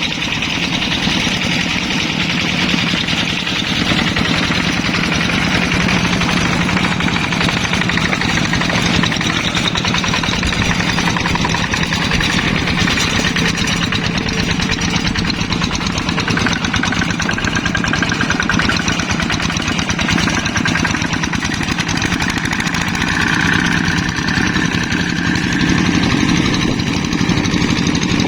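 Hand tractor's single-cylinder diesel engine running steadily with a rapid, even knocking beat.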